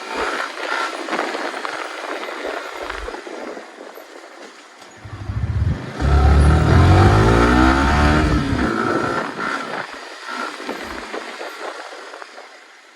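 Motorcycle riding on the road, heard from a phone mounted on the bike: engine and wind noise throughout. About five to nine seconds in it grows louder and the engine pitch rises and falls as the bike accelerates.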